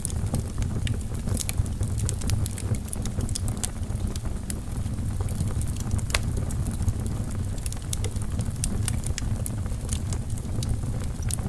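Wood fire burning in a fireplace: a steady low rumble of flames with frequent sharp crackles and pops from the logs, one louder pop about six seconds in.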